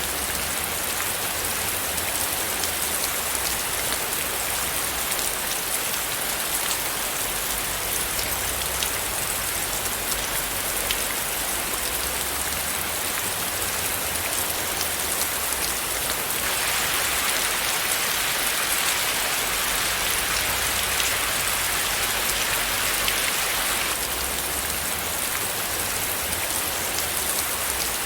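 Steady rain falling: a dense, even hiss with many small drop ticks. The hiss grows a little brighter for several seconds past the middle, then settles back.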